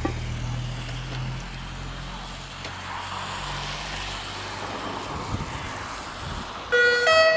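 Vehicle engine running with a steady low hum. Near the end, a loud chiming tune of plain electronic notes starts up, like an ice-cream-van chime.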